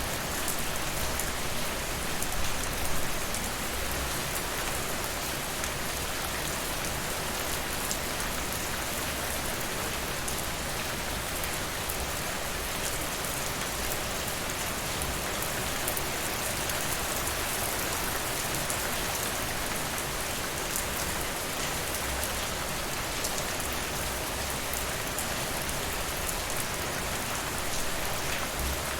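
Steady rain falling, an even hiss with scattered small ticks of drops, a little louder for a moment about two to three seconds in.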